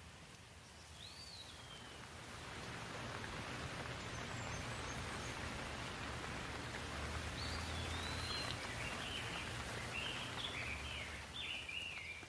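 Steady rushing water noise that swells over the first few seconds, with birds singing over it: one falling call about a second in and a run of quick chirps in the second half.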